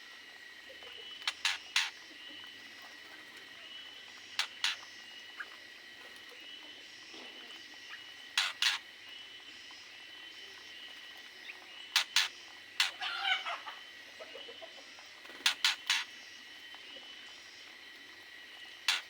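Aviary birds giving short sharp calls in clusters of two or three every few seconds, with one longer warbling call about two-thirds of the way through, over a steady high-pitched tone.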